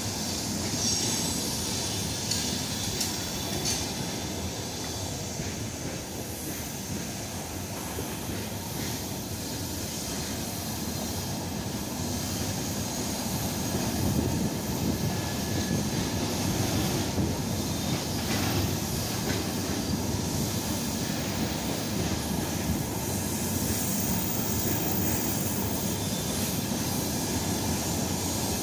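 Freight train wagons rolling past on the rails: a steady rumble of steel wheels on track, swelling a little in the second half, with now and then a faint high wheel squeal.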